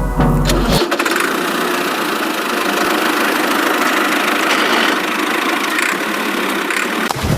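Short end of background music, then a motor running steadily with a dense, rattly texture and little low end.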